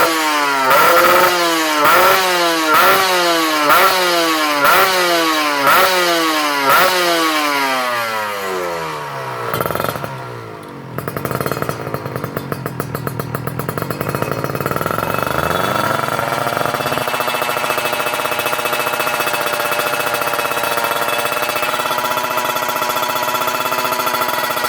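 Kawasaki Ninja 150 two-stroke engine through a stainless kVi aftermarket exhaust, revved in about eight quick blips roughly once a second, then let fall away. After a brief dip it comes back and holds a steady fast idle to the end.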